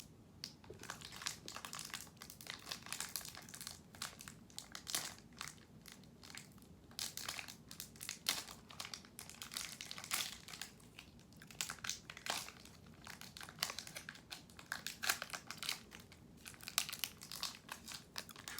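A plastic candy bar wrapper being crinkled and handled, with dense irregular crackling throughout.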